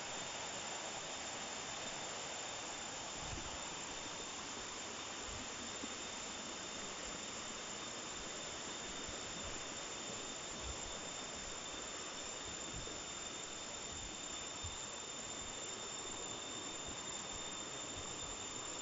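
Steady rushing hiss of flowing water from a stream or waterfall, with a faint steady high tone above it and a few soft low thumps.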